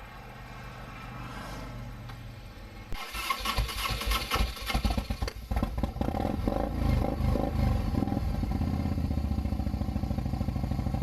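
Harley-Davidson motorcycle engine starting: it catches suddenly about three seconds in, revs unevenly for a few seconds, then settles into a steady idle.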